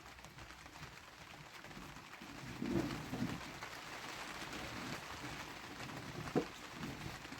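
Steady rain falling, with a brief low sound about three seconds in and a sharp knock a second before the end.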